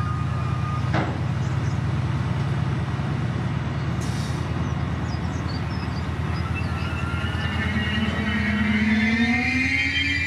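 TransPennine Express passenger train moving slowly along the platform, its engines giving a steady low drone that rises in pitch near the end as it picks up speed. A sharp clank about a second in and a brief hiss around four seconds in.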